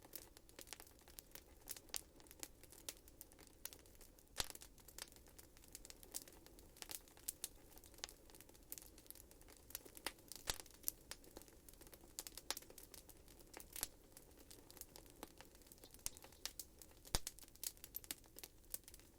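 Wood fire burning in a fireplace, crackling with irregular sharp pops over a faint steady hiss of the flames; a few louder pops stand out, about four, ten and seventeen seconds in.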